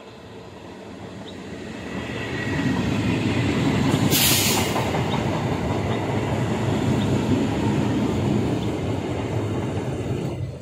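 Eastern Railway EMU local train approaching and passing at speed: the rumble of its wheels on the rails builds over the first few seconds and then holds loud. There is a brief hiss about four seconds in.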